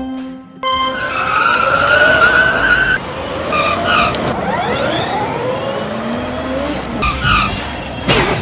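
A few chiming musical notes, then from about a second in a car-racing sound with tyres screeching in rising and falling squeals. A sharp hit comes near the end.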